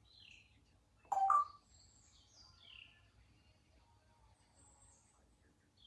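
Congo African grey parrot giving one short call about a second in that rises in pitch, with a few faint high chirps and whistles around it.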